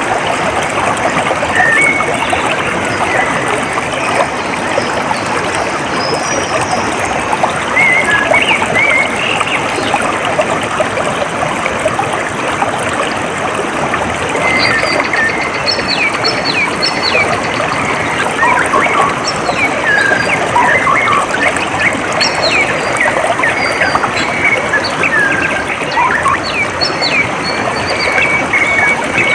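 Steady trickling and babbling of a small stream, with many birds chirping and whistling over it throughout.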